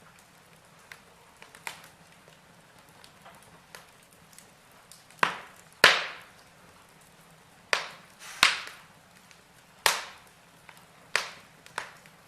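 Logs burning in a fireplace, crackling: a faint hiss with scattered small ticks and about seven sharp, loud pops, mostly in the second half.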